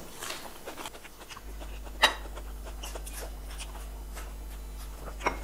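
Eating sounds: chewing raw greens, with scattered small clicks and one sharp click about two seconds in. A low steady hum starts about a second and a half in.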